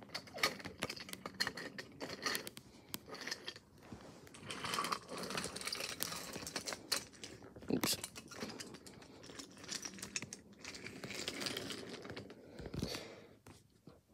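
Small clicks, knocks and rustling from wooden toy train engines being handled and set down on a hard surface. A sharper knock comes about eight seconds in.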